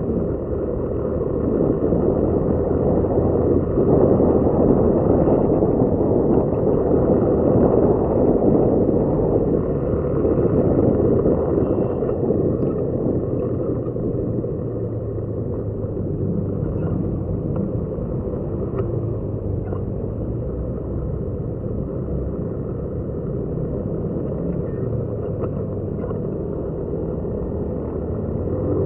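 Motorcycle on the move: a steady low engine drone mixed with rushing noise, a little louder in the first third.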